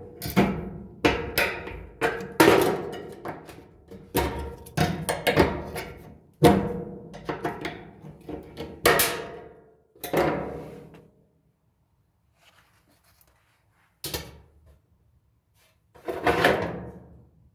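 Screwdriver and hands working on a dryer's metal drum-support wheel mounts: a run of sharp clanks and knocks that each ring briefly, with a short quiet spell after the middle and two more knocks near the end.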